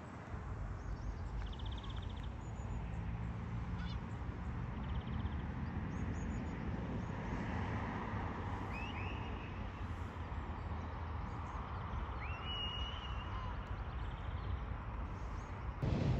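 Wild birds calling: a few short high trills, then louder rising calls twice, about nine and twelve seconds in, over a steady low rumble. A louder rushing noise starts suddenly just before the end.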